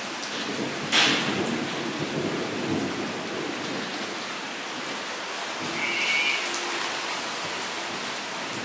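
Rain pattering steadily onto a shallow puddle on bare ground. About a second in, a sudden crack of thunder, which rumbles on for a couple of seconds.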